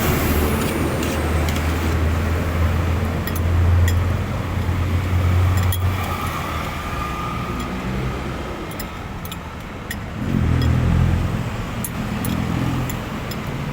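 Road traffic: motor vehicles running by, a low engine rumble that fades after about six seconds and swells again near the end, with a few small clinks.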